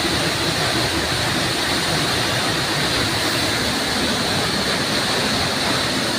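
Waterfall pouring steadily, an even rushing of falling water.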